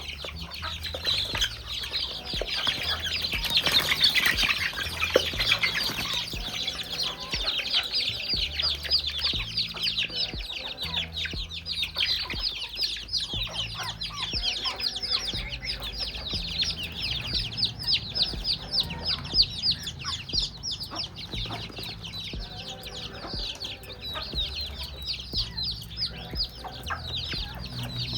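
Chickens clucking against a constant run of quick, high-pitched chirps, busiest about four seconds in.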